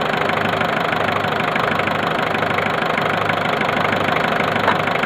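Turbocharged car engine idling steadily, heard close up in the open engine bay, with a single light click near the end.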